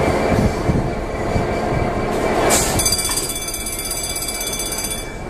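A train moving slowly on the rails, rumbling, with a high steady squeal from about three seconds in, typical of wheel flanges squealing on curved track.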